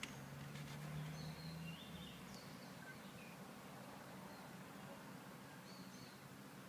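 Faint background noise with a few short, high bird chirps scattered through it. A low hum sounds for the first two seconds, with a few faint ticks about half a second in.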